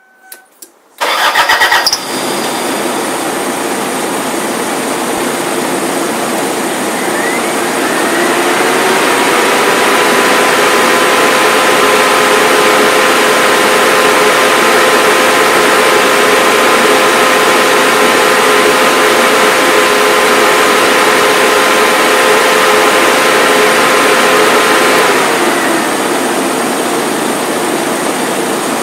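Toyota Estima Lucida's engine cranking briefly and starting about a second in, then running. A few seconds later an electric fan at the air-conditioning condenser spins up with a rising whine, runs steadily, and winds down with a falling pitch near the end.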